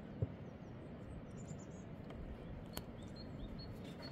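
A small bird chirping in short, repeated high notes, about two a second, starting about halfway through, over a steady outdoor hiss; a light knock sounds just after the start.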